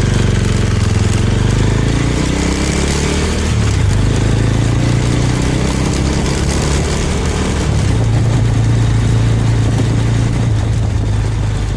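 Small Suzuki motorcycle engine pulling away, its pitch rising over the first few seconds, then running steadily at road speed, with wind rushing over the microphone.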